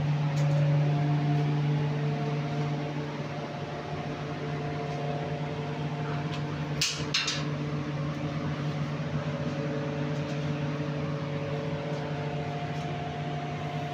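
Steady machine hum with a low, even drone and higher tones above it, broken by two quick clicks about seven seconds in.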